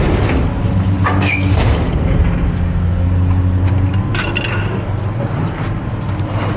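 An engine running steadily at idle, with scattered metal clanks and knocks of appliances being handled.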